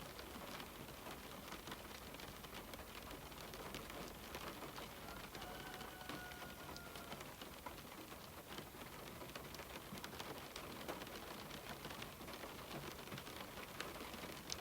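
Rain falling steadily on window glass: an even hiss of rain with many small, separate drop ticks throughout.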